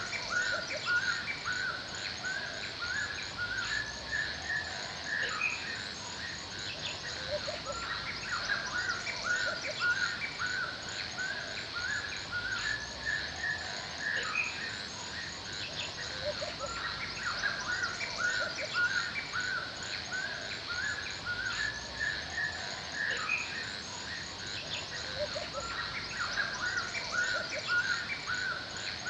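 Forest ambience: several birds chirping and singing in short phrases repeated many times a second, over a steady high-pitched hiss.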